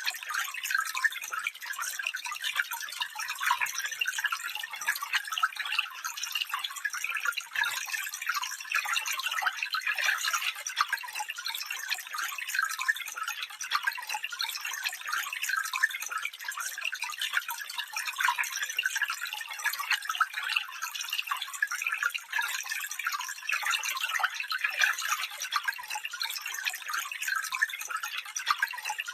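Small stream flowing and babbling, a steady high bright trickle with many quick splashes and little low rumble.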